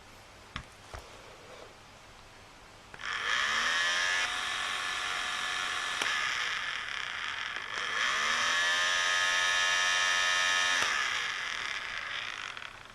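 Small fan motor of a battery-powered portable nail polish dryer whirring with a high whine. It spins up about three seconds in, spins up again a little past the middle, and fades off near the end. Two light clicks come just before it.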